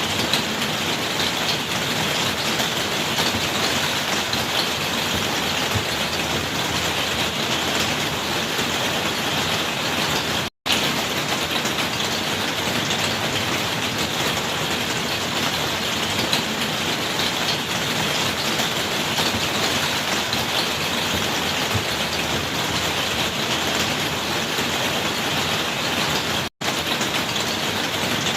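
Steady rainfall: a dense, even hiss with no single drops standing out. It cuts out for an instant twice.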